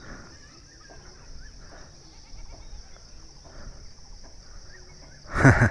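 Steady high insect buzz with faint scattered chirps, and one short loud animal call near the end.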